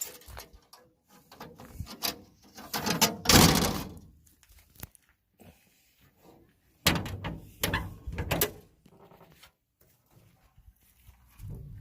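Several knocks and thuds, with a loud scraping rush a little over three seconds in and a quick run of sharp knocks from about seven to eight and a half seconds in.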